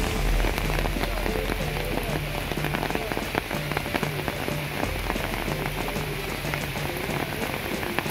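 Heavy monsoon rain falling steadily on foliage and standing floodwater, a dense hiss of rain with many separate drop hits.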